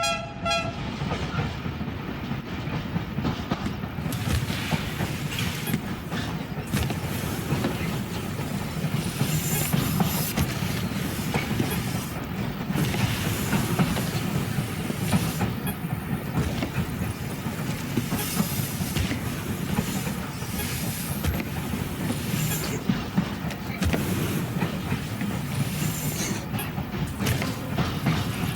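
A moving train running on its rails: a steady rumble of wheels on track with many scattered clicks and knocks.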